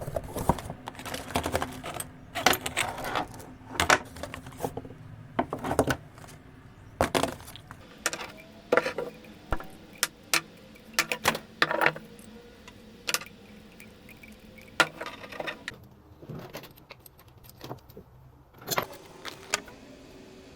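Irregular metallic clinks, taps and knocks of tools and faucet fittings being handled while a leaking kitchen faucet is changed.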